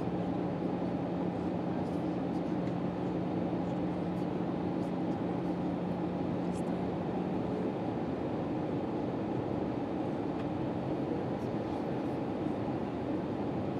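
Steady cabin noise inside an Airbus A319-112 in flight, an even rush of engine and airflow noise. A low steady hum underneath stops about eight seconds in.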